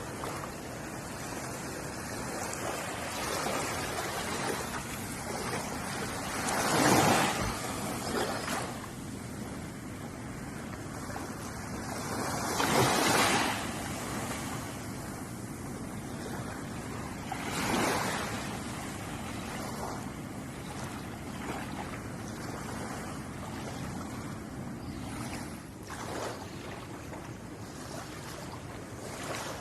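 Ocean waves washing against the shore in a steady surf, with three louder waves breaking about five or six seconds apart in the middle of the stretch.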